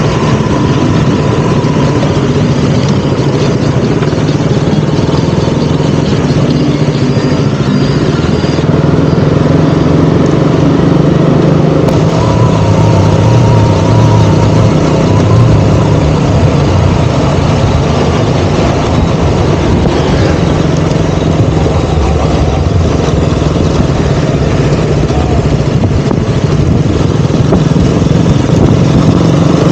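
KTM Duke 200's single-cylinder four-stroke engine running while riding, its note mostly steady, dropping lower for a few seconds about twelve seconds in before picking up again.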